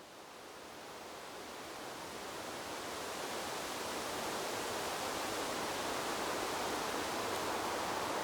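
Wind blowing through a bamboo grove, an even rustling hiss of leaves with no distinct gusts or clicks. It fades in, growing louder over the first four seconds or so, then holds steady.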